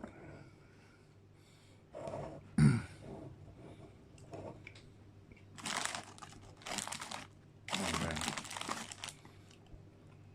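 Close-up crunching of a digestive biscuit being bitten and chewed, in several noisy bursts during the second half, after a single sharp knock near three seconds in.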